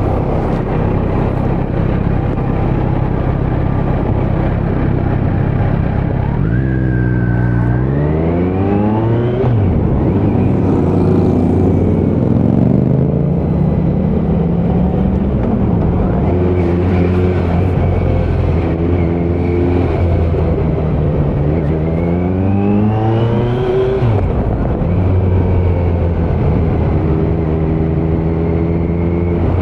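Kawasaki Z900's inline-four engine through a Leo Vince muffler on stock headers with no dB killer, heard while riding. It runs steadily, then twice pulls hard, about seven and twenty-one seconds in, with the revs climbing for about three seconds each time before dropping back sharply.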